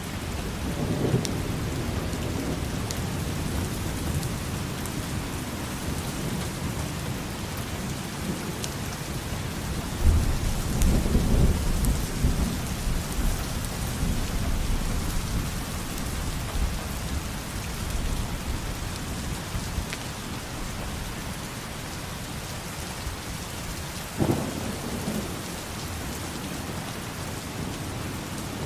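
Steady rain hissing, with thunder rumbling: a low roll about a second in, the loudest about ten seconds in lasting a few seconds, and a sudden sharper clap near the end.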